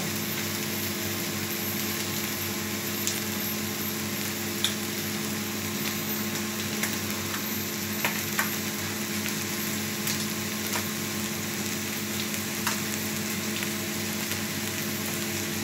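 Rice and vegetables frying in ghee in a metal pot on a gas stove: a steady sizzle with scattered small pops and crackles.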